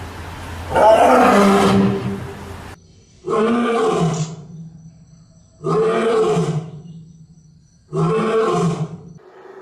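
A large animal giving loud, drawn-out calls, four of them a couple of seconds apart, each starting strong and trailing off.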